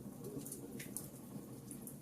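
Logs burning in a fireplace, crackling: many small sharp pops over a low steady rumble of the flames, the loudest pop about a second in.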